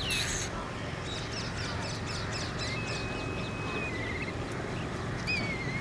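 Birds calling: a short harsh call at the start, then a run of quick high chirps, a long steady whistle breaking into a wavering trill, and another quavering whistle near the end, over a steady low background rumble.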